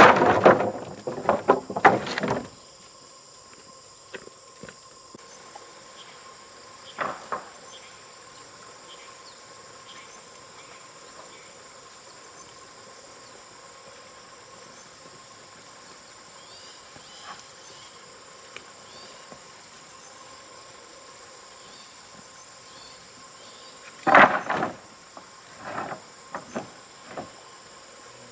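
Insects chirring steadily in a high, unbroken chorus. Bursts of knocking and clattering come at the start, once about seven seconds in, and again near the end.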